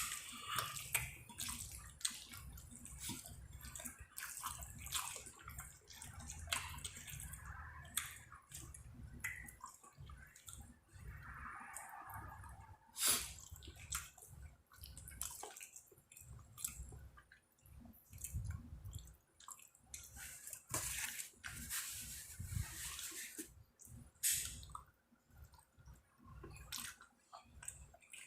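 Close-up eating sounds of a person eating chicken, lobster and shrimp alfredo: wet chewing with many irregular clicks, the sharpest about thirteen seconds in.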